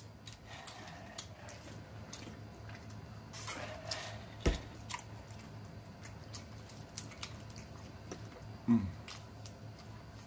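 Fried chicken wings being eaten: wet chewing and lip-smacking with many small mouth clicks, one sharper click about four and a half seconds in, and a brief falling hum of 'mm' near the end.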